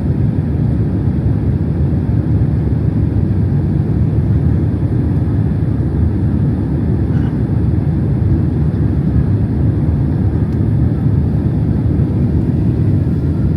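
Steady low rumble of a Boeing 767-300's engines and airflow heard inside the passenger cabin.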